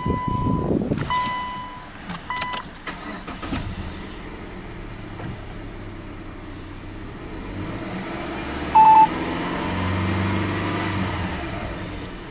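Subaru Legacy B4 2.5i's EJ25 flat-four engine starting and then running in Park, its speed rising toward about 2,000 rpm near the end. A dashboard warning chime rings three times in the first couple of seconds, and a short electronic beep sounds about nine seconds in.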